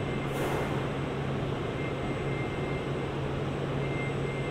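Steady hum and rushing noise of an N700S Shinkansen train at the station, with a short burst of hiss about half a second in.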